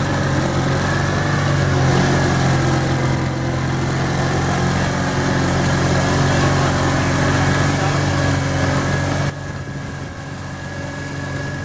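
Garden tractor engine running steadily. It drops sharply in loudness about nine seconds in.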